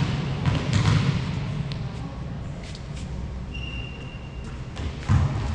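Volleyball play in a sports hall: scattered sharp thuds of ball contacts and footfalls over the hall's low rumble, with a short high-pitched tone about three and a half seconds in.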